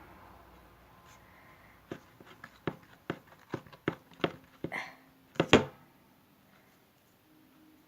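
Wet, sticky slime being mixed: a run of irregular squelches and sharp clicks, about a dozen over three or four seconds, the loudest pair near the end, then it stops.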